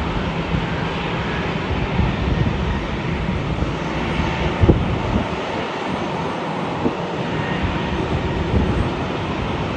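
Jet airliner engines running, a steady rushing noise, with wind buffeting the microphone in irregular low thumps.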